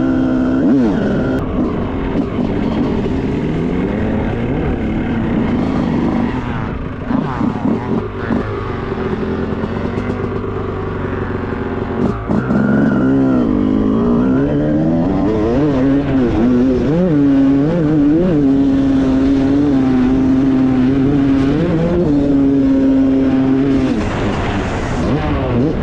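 Dirt bike engine revving up and down as the bike is ridden, the pitch rising and dropping again and again with throttle and gear changes, then held steadier for several seconds in the second half. A short knock about halfway through.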